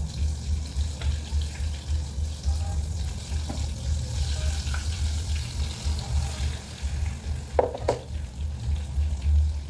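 Potato-coated egg balls deep-frying in hot oil, with a steady sizzle over a low rumble. A brief clink of a utensil comes near the end.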